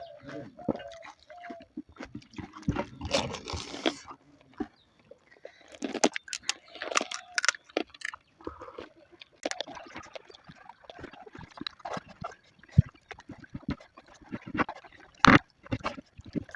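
Close-up eating sounds of panipuri: crisp puri shells crunching and the spiced water inside being slurped and chewed, as a run of irregular wet clicks and crunches.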